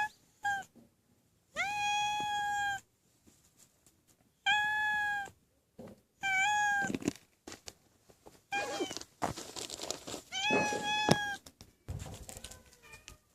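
A cat meowing repeatedly: about six meows, the longest drawn out for around a second, with pauses between them.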